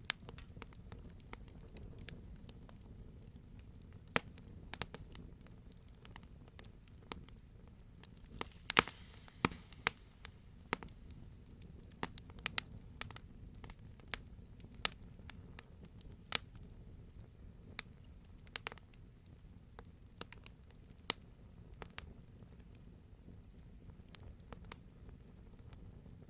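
Campfire burning, with irregular sharp pops and snaps of the wood over a low steady rumble of the flames; the pops come thickest about nine seconds in.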